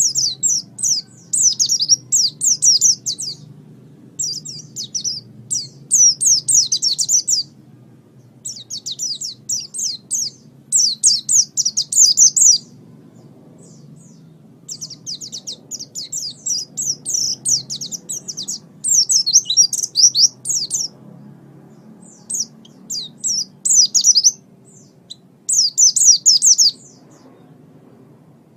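Small songbird singing a high, rapid chattering song in phrases of one to three seconds, separated by short pauses, over a faint steady low hum.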